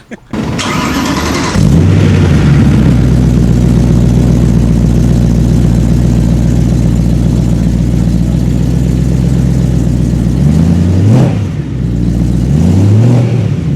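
BMW M3 E92's 4-litre naturally aspirated V8 starting: the starter cranks for about a second and a half, then the engine catches and flares. It settles into a steady idle and is blipped twice near the end, the pitch rising and falling each time.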